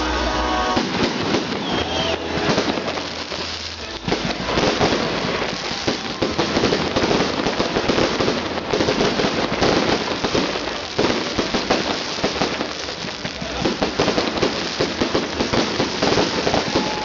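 Fireworks salute going off: a continuous dense barrage of crackling pops and bangs.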